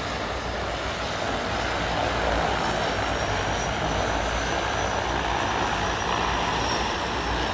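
Steady, even rush of a mountain river's flowing water.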